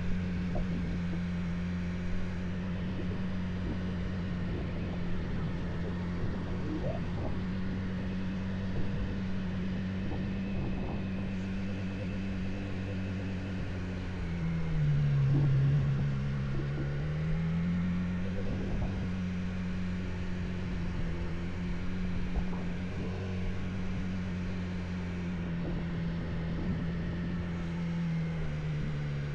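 Motorcycle engine running steadily under way, a big heavy bike. About halfway through its note dips lower and climbs back up, briefly a little louder.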